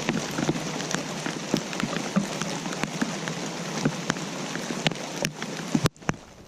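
Rain falling steadily, with many separate drops ticking and tapping against a constant patter. Just before the end it cuts out for a moment, then comes back softer.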